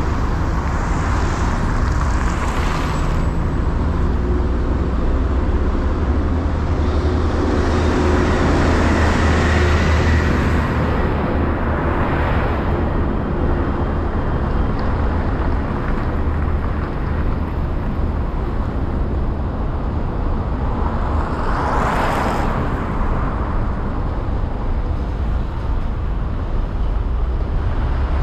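Road traffic on a bridge: a steady low rumble of tyres and engines, with single vehicles swelling past close by three times, loudest about twenty-two seconds in.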